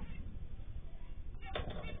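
Aviary cage bird giving a short call about one and a half seconds in, over steady low background noise, picked up through a security camera's microphone that cuts off the high frequencies.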